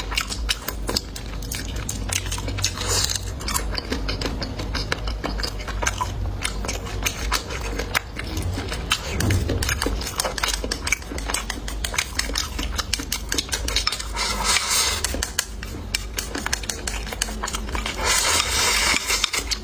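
Close-miked mukbang eating: chewing and biting with many small clicks and clinks of utensils against dishes. Two short, louder, hissy stretches come in the second half.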